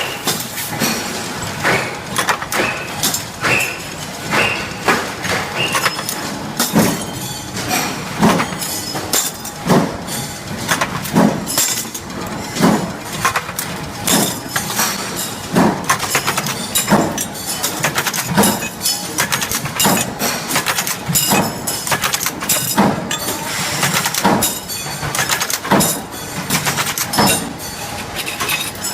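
Flag-hinge making machine running a steady cycle: repeated sharp metallic strikes and clinks of steel hinge parts, a strong one about every second and a half with lighter clinks between.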